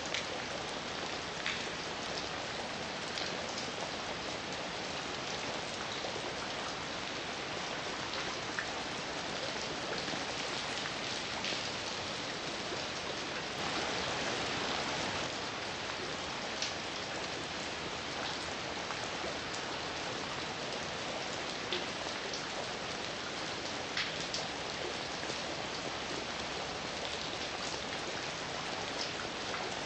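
Heavy rain falling steadily: a dense, even hiss with individual drops ticking through it, swelling briefly about halfway through.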